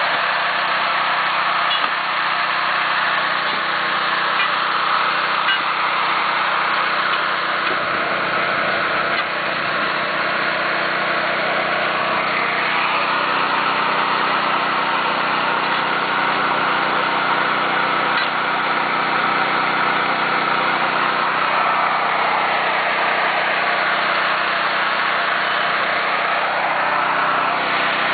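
Small engine running steadily, its pitch drifting up and down a little now and then.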